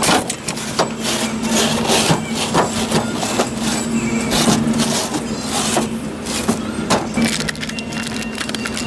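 Vehicle running, with a steady hum and a stream of irregular rattles and knocks, as heard from a pickup truck on the move.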